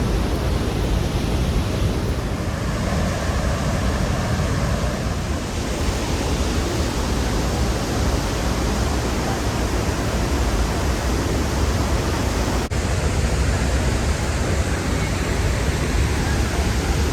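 Athirapally Falls' rushing water, a loud steady rush with no break in it apart from a brief dip about twelve and a half seconds in.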